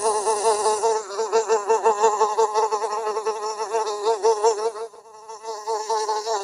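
An insect buzzing: one steady, wavering drone that dips briefly about five seconds in and then comes back.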